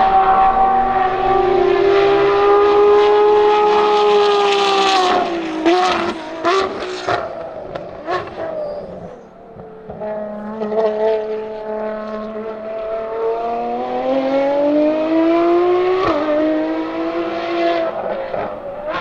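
Ferrari FXX K Evo's V12 at high revs on track, then a string of quick downshifts with rev blips and cracks from the exhaust. After a short lull the engine accelerates hard, its pitch climbing, dropping at an upshift and climbing again.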